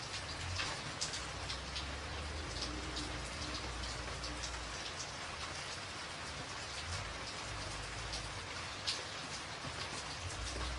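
Rain falling on a tin roof: a steady hiss with individual drops ticking sharply on the metal.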